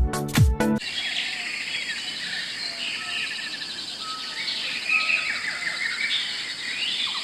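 Electronic dance music cuts off within the first second, giving way to tropical rainforest ambience: many birds chirping and trilling over a steady high insect hum.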